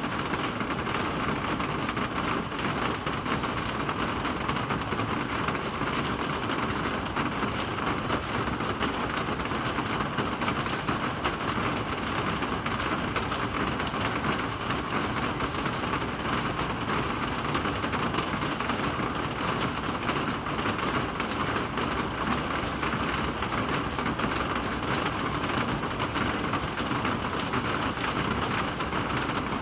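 Rain falling steadily, an even hiss of rain on surfaces.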